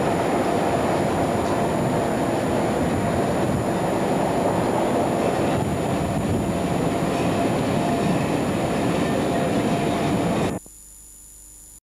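Railtour train running slowly on dock lines, heard from a carriage window as a steady rumbling noise. It cuts off suddenly about ten and a half seconds in, leaving only faint tape hiss.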